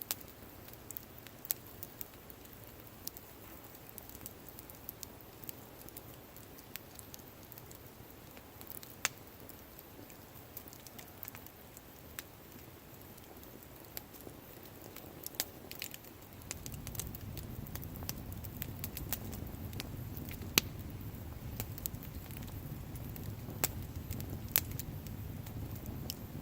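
Wood fire crackling, with scattered sharp pops and snaps. About two-thirds of the way through a steady low rumble joins in.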